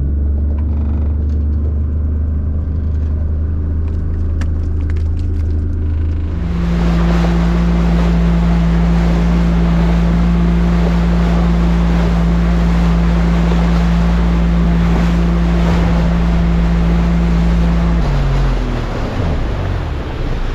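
Boat engine running under way. About six seconds in, the engine note steps up and a rush of wind and water comes in with it. Near the end the engine throttles back, its pitch falling in steps.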